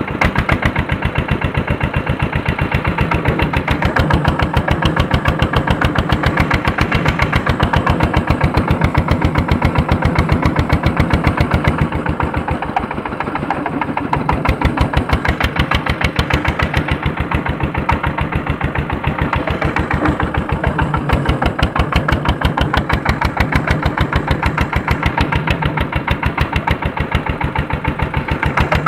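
Andoria S-231 diesel engine of a tractor running steadily under load while pulling a harrow, a fast, even chugging of firing strokes.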